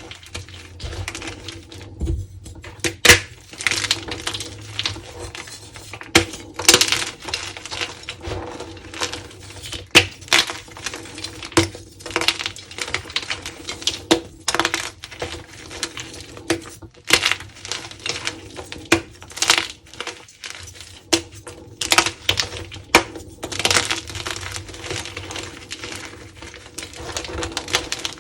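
Crunchy dyed gym chalk being crumbled, giving an irregular run of dry cracks and crackles with occasional louder snaps.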